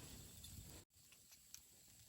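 Wood campfire crackling faintly, with a low rumble and small scattered pops. The sound cuts out abruptly for an instant a little under a second in, then carries on quieter with sparse crackles.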